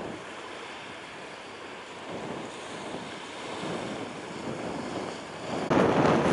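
Steady rush of wind and waves, with a sudden louder burst of noise near the end.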